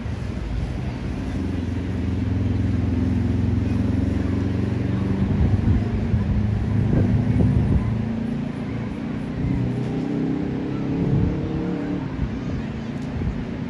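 A motor vehicle's engine running close by with a steady low hum, which turns rougher and uneven after about eight seconds, with a few knocks.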